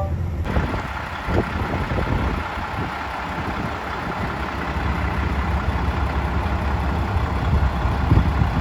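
Mack snowplow truck's diesel engine running with a steady low drone, joined about half a second in by a broad hissing rush.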